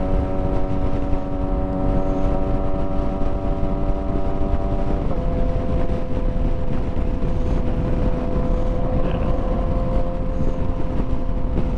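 Motorcycle engine running at a steady cruise while riding, its note dropping to a lower steady pitch about five seconds in, under heavy wind noise on the helmet microphone.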